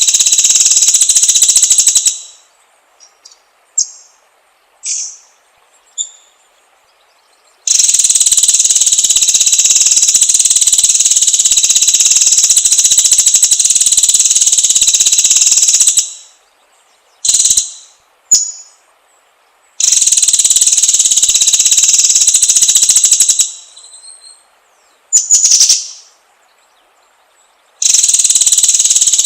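White-rumped shama (murai batu) song: long, loud, high-pitched rapid trills lasting several seconds each, stopping and starting four times. In the pauses between them come a few short, sharp chirps.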